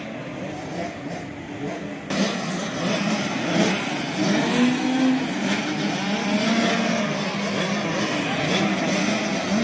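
85cc two-stroke motocross bike engines revving, their pitch rising and falling, growing louder about two seconds in.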